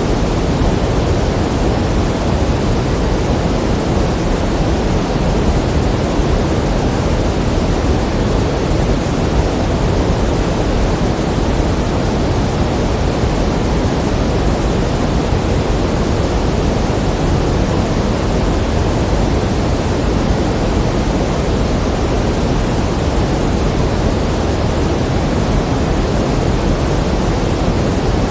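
Steady pink noise: an even, unchanging hiss, stronger in the low end than the high.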